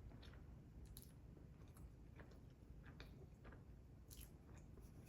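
A person chewing food quietly, with faint scattered wet mouth clicks.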